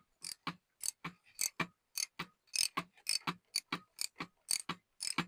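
Socket ratchet clicking in quick short strokes, about four clicks a second, as it turns down the oil filter housing cap on a BMW B58 engine.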